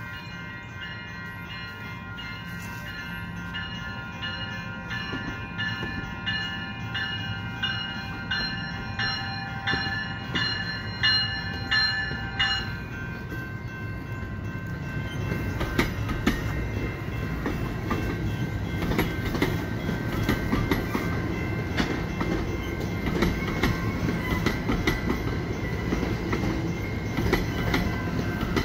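Railway crossing warning bell ringing with strokes about twice a second, stopping about 12 seconds in. Then an EXO commuter train of Bombardier multilevel coaches passes close: a steady, louder rumble of wheels on rails with clicks over the rail joints.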